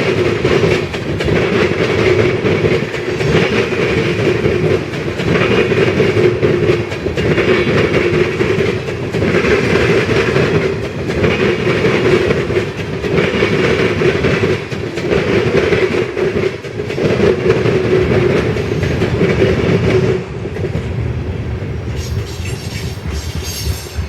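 Freight train of ethanol tank cars rolling past, the wheels clattering in a steady repeating rhythm over the rail joints. The sound drops away about twenty seconds in as the train passes.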